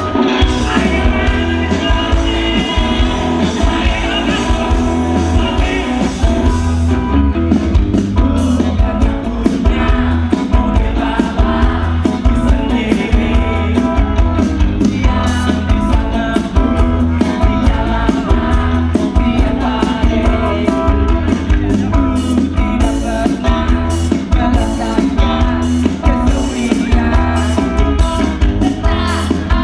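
Live rock band playing, with drums, bass, guitar and singing, loud and continuous.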